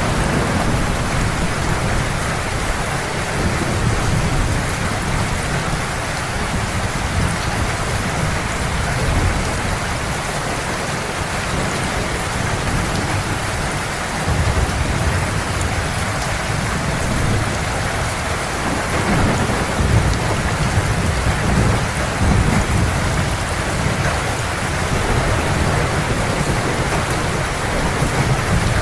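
Heavy rain falling steadily, with a low rumble of thunder that swells and fades, strongest in the second half.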